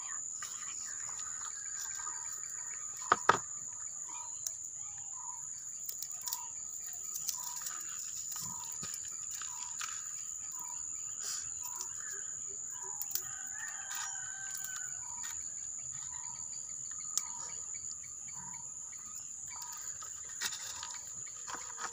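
A bird calling in a long, even series of short notes, about three every two seconds, over a steady high whine. A few sharp clicks come from charcoal being broken by hand, the loudest about three seconds in.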